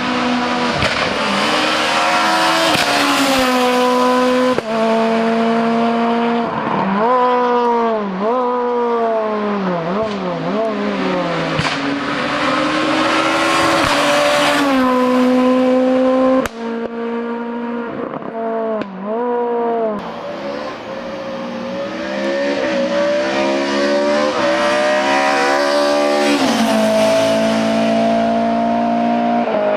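Hill-climb race cars at full throttle, the engine note climbing through each gear and dropping at every shift, with quick rises and falls around downshifts. About halfway through there is an abrupt change to another car running up through its gears.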